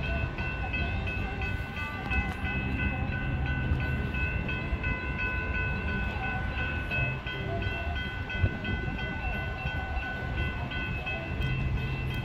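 A standing CTA 2600-series rapid-transit train giving off a steady high-pitched whine of several tones over a low hum.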